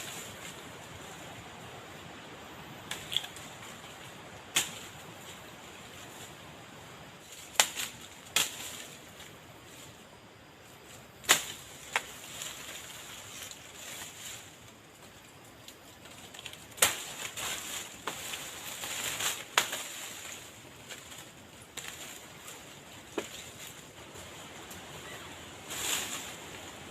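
Irregular sharp knocks and snaps, about a dozen spread unevenly, over a steady outdoor hiss.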